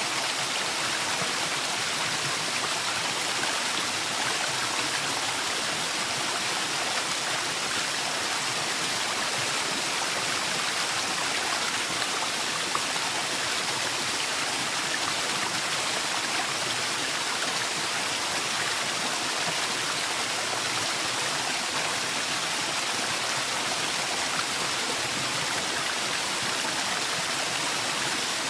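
Waterfall in a forest: a steady, even rush of falling water with a dense hiss and no breaks.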